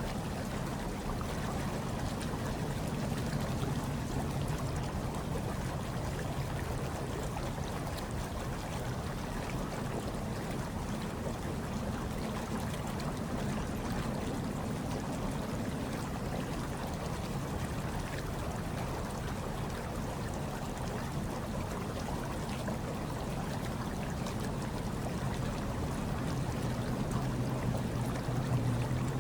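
Hot tub water churning and bubbling steadily, with a low hum underneath that swells slightly near the end.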